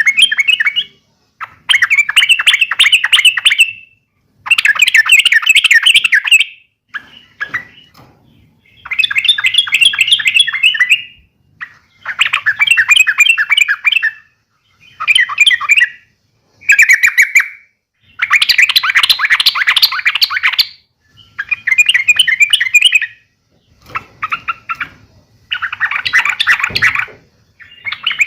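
Yellow-vented bulbul (trucukan) fighting call: repeated bursts of rapid, chattering notes, each a second or two long, with short breaks between them.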